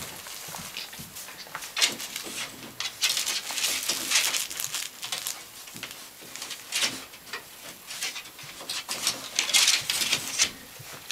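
Five-week-old puppies playing together: irregular scuffling and short noisy bursts, coming thickest a few seconds in and again near the end.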